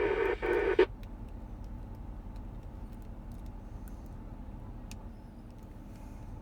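A buzzy, distorted radio transmission from the mobile FM transceiver's speaker cuts off suddenly under a second in as the squelch closes. A low steady vehicle rumble in the truck cab follows.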